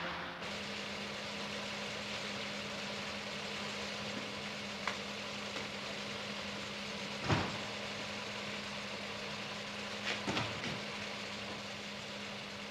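A car engine idling steadily, with a few short knocks, the loudest about seven seconds in.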